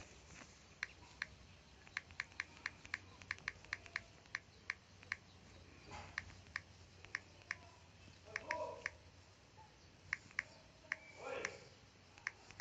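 Faint, sharp clicks in irregular runs, up to about three a second, with two brief faint murmurs, one about two thirds of the way in and one near the end.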